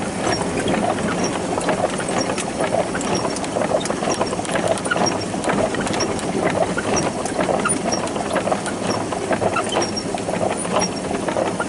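Small hydrostatic garden tractor's engine running steadily while plowing snow, with a constant clatter of small clicks and rattles.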